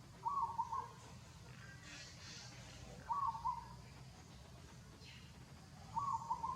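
A bird calling three times, about every three seconds: each call is a short, wavering, pulsed note of about half a second, repeated the same way each time.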